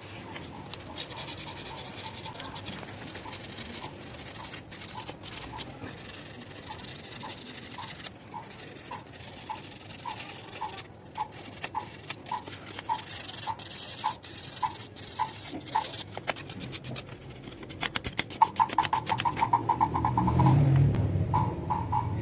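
1000-grit sandpaper rubbing back and forth on the burned metal contacts of a power window switch, cleaning off the burn marks. The scratching strokes come about twice a second and quicken and grow louder near the end.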